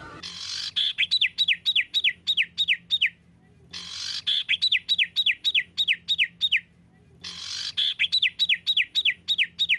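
A songbird's call phrase: a short harsh burst followed by a run of about eight clear whistled notes, each sliding down in pitch, about four a second. The phrase repeats three times with short silent gaps, as in a looped masteran track of rapid 'tembakan' calls used to train caged songbirds.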